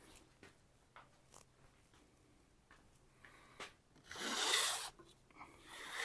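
Knife blade drawn along a hanging kangaroo-tail leather strop: a few light clicks, then two noisy strokes of about a second each in the second half. The ridges of the kangaroo tail make the noise as the strop removes the root of the burr from the freshly sharpened edge.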